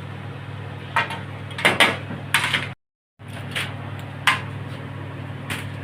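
A series of separate clinks and knocks from cooking utensils or dishes being handled, over a steady low hum. The sound cuts out completely for a moment near the middle.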